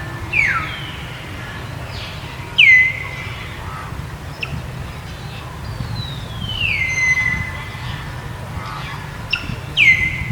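Four high whistled animal calls, each gliding down and then holding a steady pitch. The first two are short, the third a long slow slide lasting about two seconds, and the last comes near the end. A steady low hum sits underneath.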